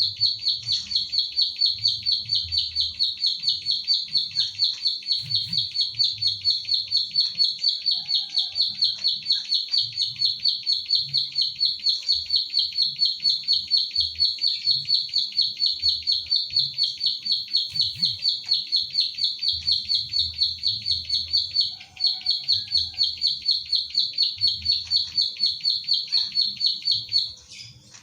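Ciblek sawah (klik-klik bird) calling: a long, unbroken train of sharp, high 'klik' notes, about five a second, with one short break about three-quarters of the way through. It stops just before the end.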